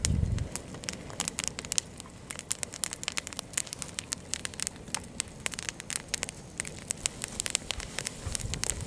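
Bonfire crackling, with many irregular sharp snaps and pops over a low hiss. A duller low bump comes at the start and another near the end.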